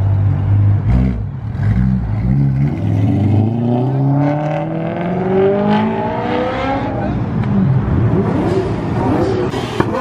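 Car engine idling, then revving in one long rise in pitch over about five seconds before dropping off. A sharp crack sounds near the end.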